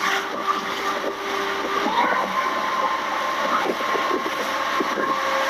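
Motorboat engine running steadily over a constant rush of noise; its pitch steps up about two seconds in.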